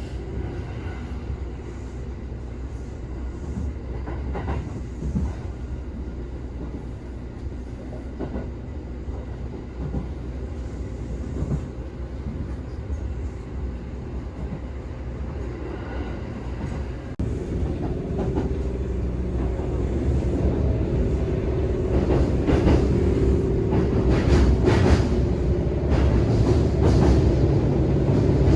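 Shinkansen bullet train running at speed: a steady deep rumble that jumps louder about halfway through and keeps building, with a rattling clatter near the end.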